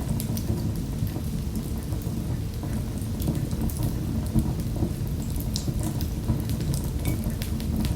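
Wood fire in a fireplace crackling: a steady low rumble with many small, sharp pops and snaps scattered throughout.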